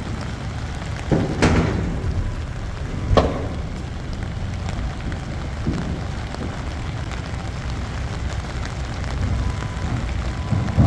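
Heavy diesel machinery engine running steadily with a low rumble, with sharp metallic clunks about a second and a half in and again about three seconds in.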